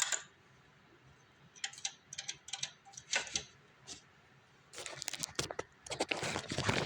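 Small metallic clicks and rattles of hand tools and parts being handled during snowblower carburetor installation, scattered at first, then a run of rapid clicking over the last two seconds.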